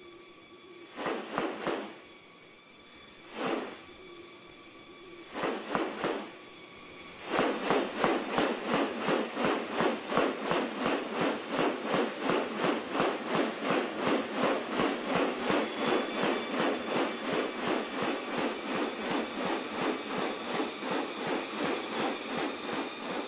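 Forest ambience: a steady high insect drone, overlaid by a harsh pulsed animal sound. It comes in a few short bursts at first, then from about a third of the way in as rapid, continuous pulsing of about four pulses a second.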